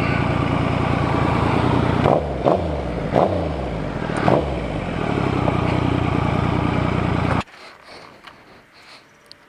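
Triumph Legend TT 900's three-cylinder engine running while the bike is ridden, with a few brief changes in engine pitch between about two and four and a half seconds in. The engine sound cuts off suddenly near the end, leaving quiet background.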